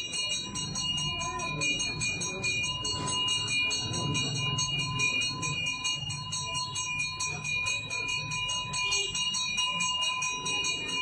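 Temple bell rung rapidly and without a break, its ringing tones sustained by quick, even strokes, over a low murmur of voices.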